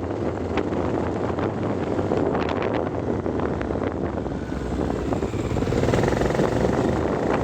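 Vehicle driving on an unpaved forest road: steady engine and road noise with frequent sharp ticks of gravel under the tyres.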